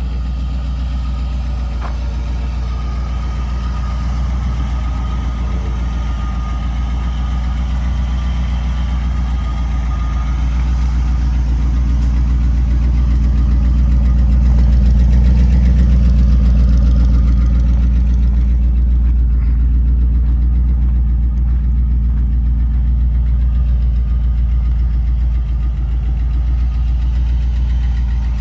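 1973 Ford F-250 pickup's V8 engine idling steadily, a deep, even running sound that grows somewhat louder midway.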